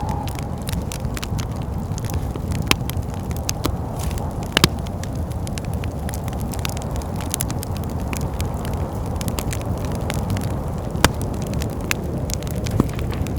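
Wood fire crackling in a fireplace, with scattered sharp pops over a steady low rush of wind. Two louder pops come about four and a half seconds in and about eleven seconds in.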